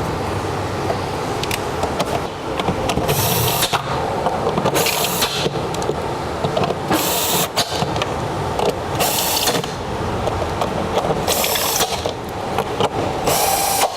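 Short hisses, about half a second each, repeating roughly every two seconds six times, over steady workshop background noise with light clicks and knocks.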